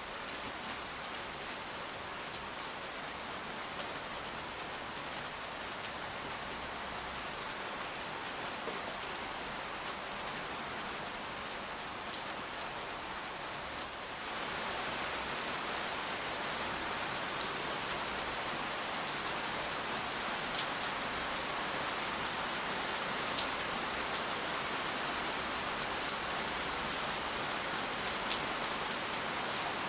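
Steady rain falling, with scattered drops ticking sharply on nearby surfaces. The rain gets suddenly louder about halfway through.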